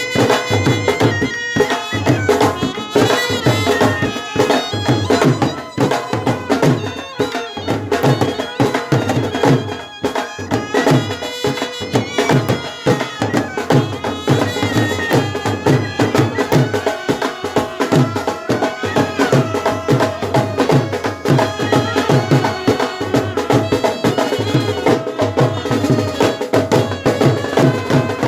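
Brass band playing a traditional folk tune: wind instruments carry a shifting melody over steady drumming.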